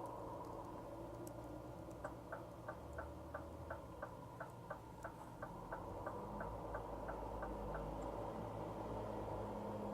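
Steady drone of a Scania R450 truck's 13-litre six-cylinder diesel and the road, heard inside the cab. From about two seconds in, the turn-signal indicator ticks about three times a second for roughly six seconds, then stops.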